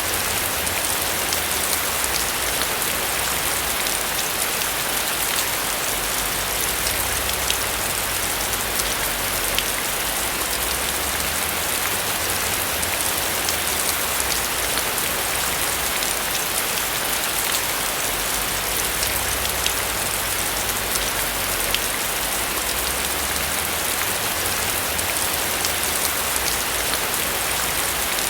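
Steady rain on a roof: an even, dense hiss with many fine drop ticks over a low rumble that slowly swells and fades.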